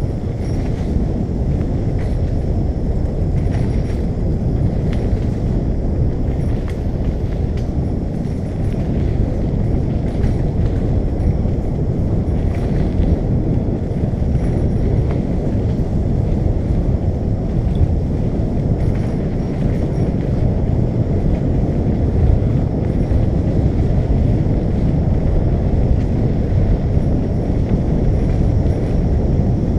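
Steady low rumble of wind buffeting the microphone and bicycle tyres rolling along, with faint scattered ticks.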